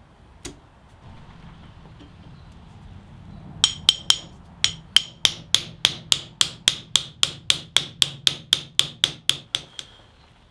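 Hand hammer striking metal in a fast, even rhythm of about three blows a second, some twenty strikes starting a few seconds in, each with a short metallic ring; a single knock sounds about half a second in.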